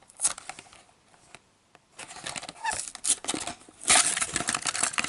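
Plastic packaging of a diecast toy car being handled and pried open: a few clicks, then a stretch of dense crackling and crinkling that is loudest near the end.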